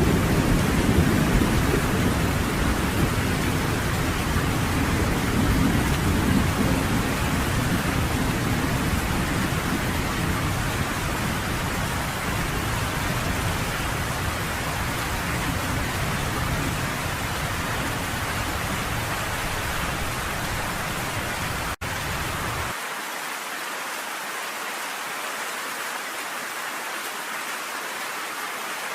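Steady heavy rain with low rolling thunder that is strongest at the start and slowly dies away. A little past twenty seconds in there is a brief dropout, and after it only the hiss of the rain is left, with no rumble underneath.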